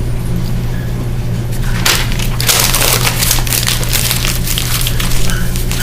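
Paper being crumpled and rustled: a dense crackling from about two seconds in to near the end, over a steady low hum.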